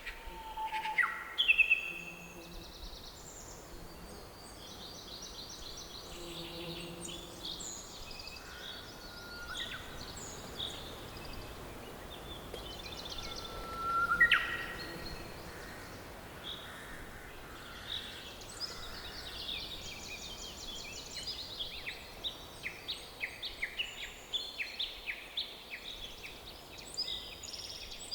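Several songbirds singing and calling in a forest over a faint steady background hiss: short chirps, trills and whistled notes, with a loud rising whistle about 14 seconds in and a dense run of rapid repeated chirps in the second half.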